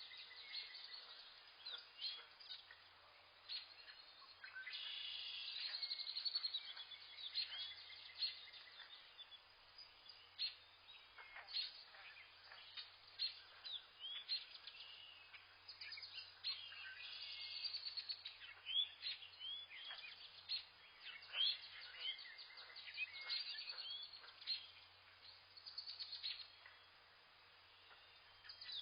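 Several wild birds chirping and whistling together: many short overlapping calls and quick rising and falling whistles, some in dense runs, over a faint background hiss.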